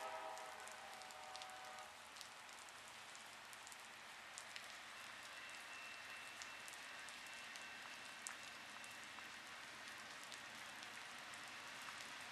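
Heavy tropical-storm rain hissing steadily, with scattered drops ticking close by. A locomotive horn's last note fades out over the first couple of seconds.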